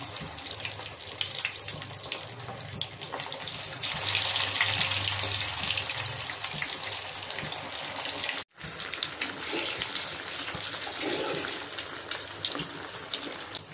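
Breaded bread-and-potato cutlets shallow-frying in hot oil in a pan: steady sizzling and crackling that grows louder about four seconds in. The sound breaks off for an instant just past halfway.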